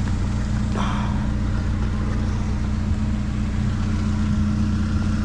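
Vehicle engine idling steadily, a constant low hum, with a brief rustle or clatter of items being handled about a second in.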